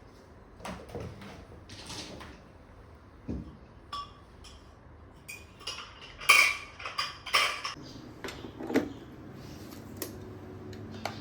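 Dishes and utensils clinking and knocking in a kitchen, a scattered series of short clatters with one louder ringing clink about six seconds in.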